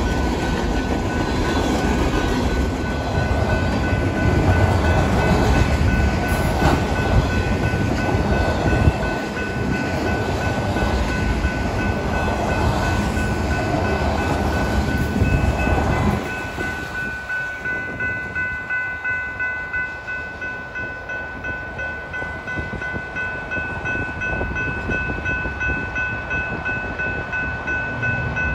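Freight train cars rumbling and clattering past over a grade crossing, with a railroad crossing bell ringing steadily. About halfway through, the train noise drops sharply as the train recedes, leaving the crossing bell dinging about twice a second.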